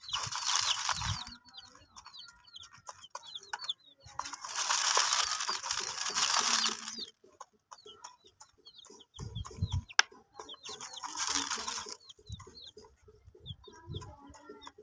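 Baby chicks cheeping, many short high peeps throughout. Three stretches of loud hissing noise are mixed in, with a few low thumps and a sharp click about two-thirds of the way through.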